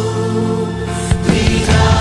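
Contemporary worship music: a band holding sustained chords, with a drum hit about a second in, after which the full band comes back in.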